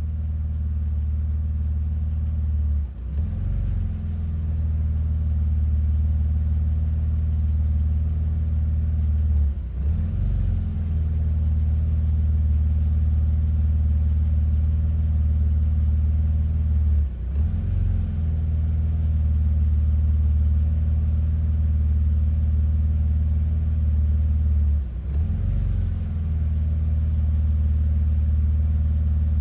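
BMW Z3 engine idling roughly from a cold start. The idle runs steadily but stumbles four times, about every seven or eight seconds, each time sagging briefly in speed and level before picking back up.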